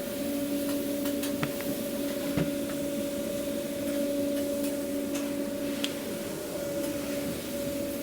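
A steady machine hum holding two low tones, with scattered light clicks and rattles of takeout containers and bags being packed.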